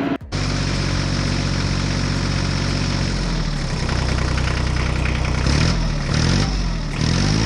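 An engine idling steadily, then revving up and down a few times in the second half. The sound begins abruptly after a brief dropout just after the start.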